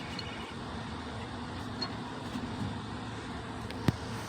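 Steady low background hum with one sharp knock near the end.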